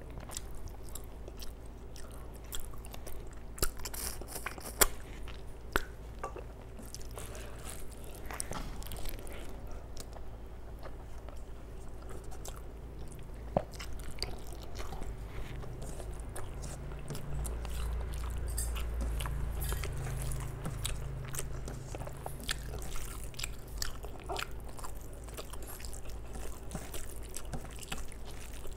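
Close-miked chewing and wet mouth smacks from a person eating rice and mutton curry by hand, with soft squishing and clicks as her fingers mix rice on a steel plate.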